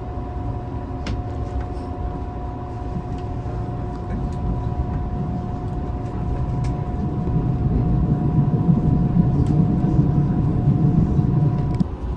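Passenger train running, heard from inside the carriage: a steady low rumble with a steady whine over it. The rumble swells louder about eight seconds in and drops away sharply near the end.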